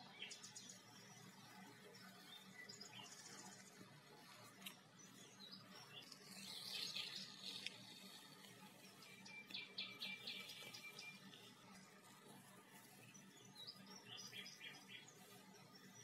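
Faint birdsong: scattered high chirps, with a quick run of repeated notes about ten seconds in. A brief rustling hiss about six to seven seconds in is the loudest sound.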